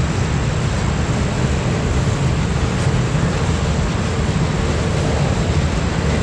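Freight train rolling past: a steady, even rumble with no horn or bell.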